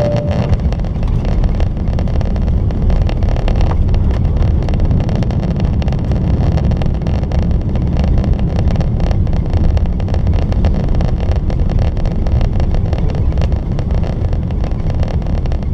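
Boeing 777-300ER cabin noise heard from a window seat near the engines: a loud, steady rush of engine and airflow noise, heaviest in the low end.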